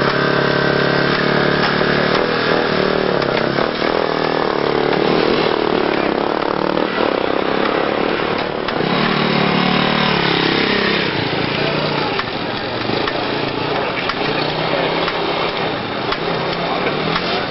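Several enduro motorcycle engines running and being revved at the start gate, their pitch rising and falling. About halfway through, one engine's pitch climbs as a bike pulls away.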